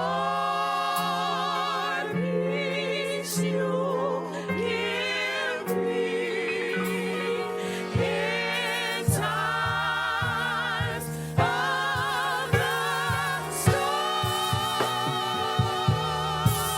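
Gospel choir singing long, wavering held notes over a steady low keyboard or bass note; drum hits join about halfway through.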